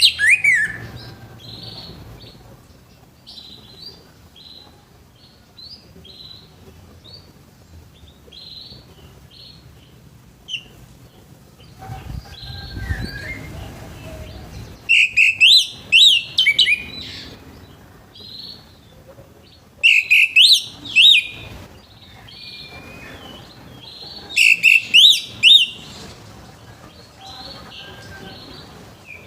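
Orange-headed thrush singing: loud bursts of quick, sweeping whistled phrases right at the start, then three more about halfway through and toward the end, with softer short notes in between.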